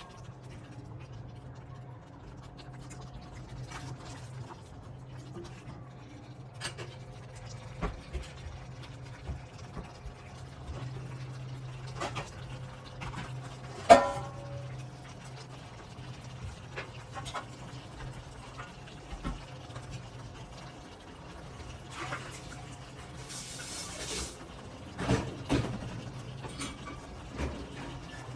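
Kitchen cooking sounds: scattered clinks and knocks of utensils and dishes over a steady low hum, with one loud ringing metallic clank about halfway and a brief hiss near the end.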